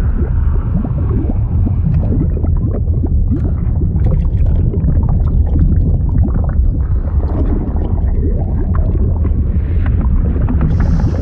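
Liquid sound effect: a steady low rumble under a constant stream of short bubbling, gurgling blips.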